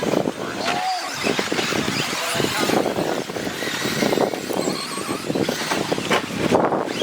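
Radio-controlled 2WD short course trucks racing on a dirt track: a steady mix of small motors and tyres scrabbling on dirt, with many scattered clicks and knocks.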